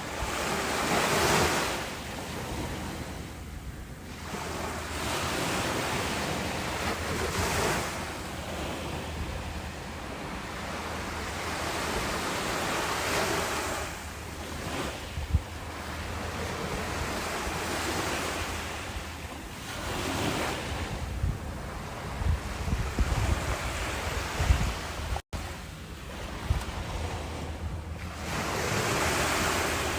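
Ocean waves breaking and washing up, swelling and ebbing every five to seven seconds. Wind buffets the microphone with short low thumps in the second half.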